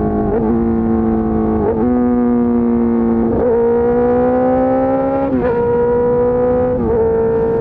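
Suzuki GSX-R600 K4 inline-four running through an SC-Project S1 race exhaust while being ridden. The note holds fairly steady, with about five short breaks where the pitch jumps, and it climbs slowly in the middle.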